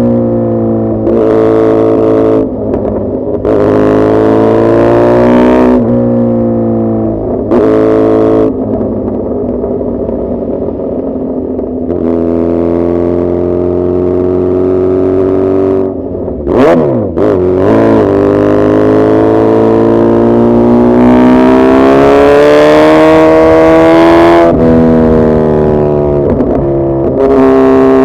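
Suzuki Hayabusa's inline-four engine under way, its pitch rising and falling with the throttle and broken by several abrupt changes. About two-thirds of the way through the revs flick sharply up and back down.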